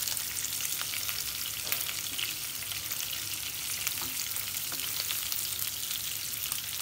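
Prawns sizzling and crackling steadily as they shallow-fry in hot oil, golden brown and crisp, with a wooden spatula stirring them in the pan and giving a few light knocks.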